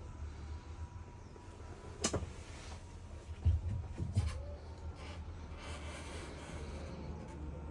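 Scania G 440 dump truck's diesel engine running at idle as a steady low rumble. A sharp click about two seconds in is followed by two heavy thumps, like a door or panel being worked.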